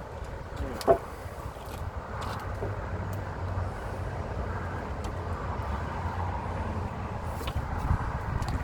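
A steady low rumble of a running engine, with one sharp knock about a second in.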